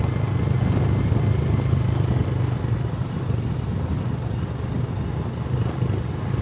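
Motorbike running steadily while being ridden along a road.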